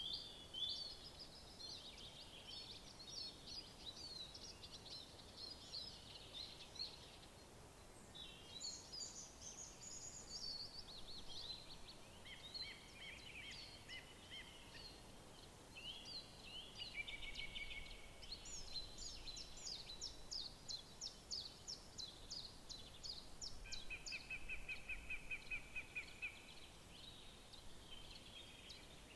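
Several songbirds singing in overlapping phrases over a faint steady hiss, with a run of evenly repeated high notes around the middle and a fast, lower trill a little later.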